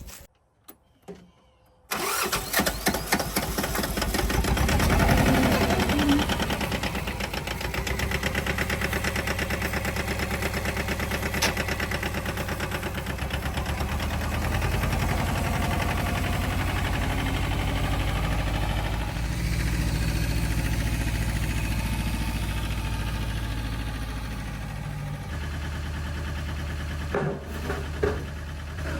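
An engine starts suddenly about two seconds in and runs steadily, with a brief rise in level soon after it catches and a shift in its running note near the end.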